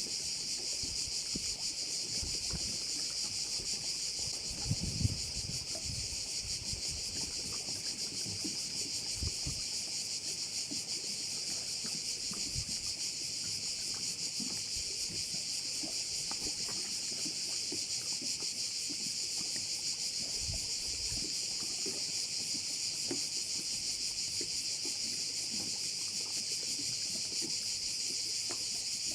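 Dense, unbroken chorus of Mediterranean cicadas, a steady high-pitched buzzing, with a few low rumbles of wind on the microphone.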